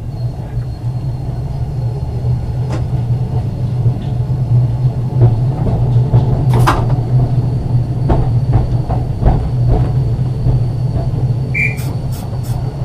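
Ex-Liverpool Corporation tram 869 running under one notch of power: a steady low motor hum and wheel-on-rail rumble with a faint high whine, and scattered knocks and clicks from the running gear and body.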